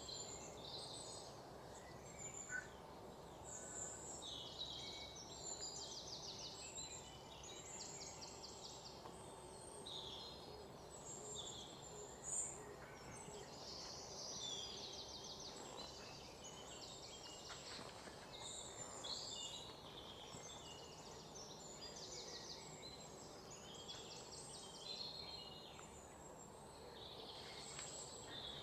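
Small birds chirping faintly in the background, many short calls and rapid trills overlapping throughout, over a faint steady room hum.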